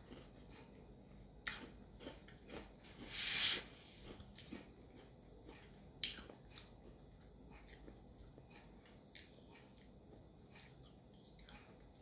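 Close-up chewing and biting of a sugary, strawberry-flavoured candy, with scattered sharp clicks and small ticks from the mouth. One short hissing burst about three seconds in is the loudest sound.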